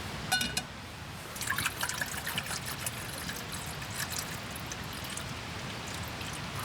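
Water trickling, with a short clink about a third of a second in.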